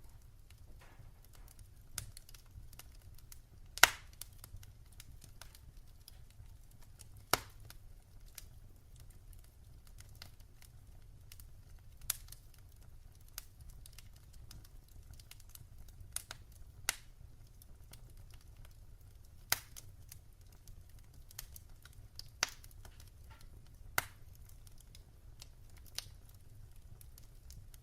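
Wood fire in a fireplace crackling: irregular sharp pops and snaps, the loudest about four seconds in, over a low steady rumble.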